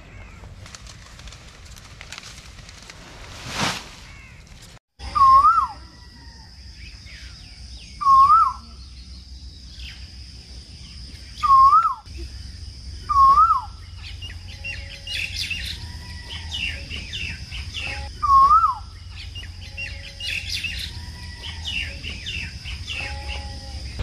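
A bird calls loudly five times, each a clear note about half a second long that rises and falls. Smaller birds chirp and a steady high-pitched hum runs behind, and a single brief rustle comes about four seconds in.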